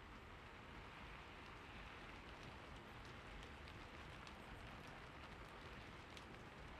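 Faint, steady rainfall with scattered small drop ticks.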